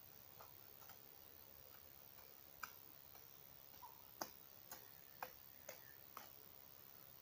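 Faint, sharp clicks over a near-silent background, a few scattered and then about six in a row, roughly two a second, in the second half.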